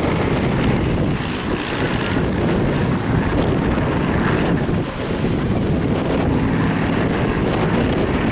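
Wind buffeting the microphone, a steady noisy rumble with no clear pitch.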